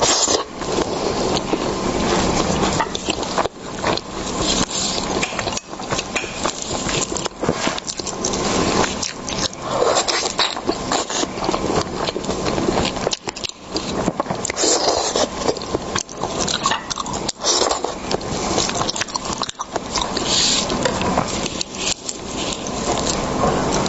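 Close-miked eating of seafood: continuous wet chewing and biting, with frequent sharp mouth clicks and smacks.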